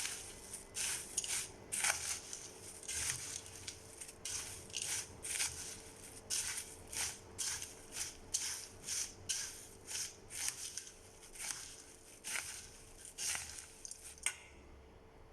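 Crisp deep-fried poha, peanuts and roasted gram being stirred and tossed with spice powders in a mixing bowl: a dry rustling crunch in repeated strokes, about two a second, that stop about a second before the end.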